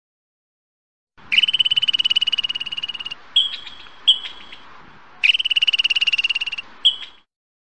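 Squirrel chattering: two long, rapid, high trills of a second or two each, with short sharp chips between them.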